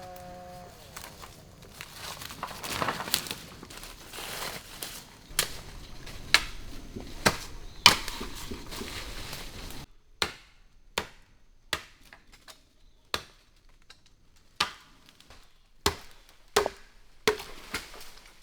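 Bamboo being chopped with a blade: sharp single strikes, with rustling of stalks and leaves through the first half. From about ten seconds in the background drops away and the strikes come on their own, about nine of them, roughly a second apart.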